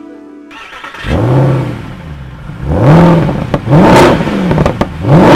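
Mercedes-Benz SLS AMG's naturally aspirated 6.2-litre V8 being blipped several times while stationary, each rev rising quickly and falling back. The first rev comes about a second in, and the revs follow one after another at roughly one-second intervals.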